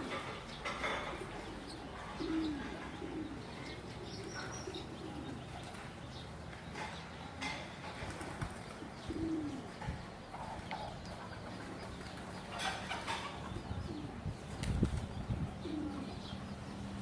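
Pigeons cooing in short, low calls every second or two, with scattered sharp clicks and flutters among them.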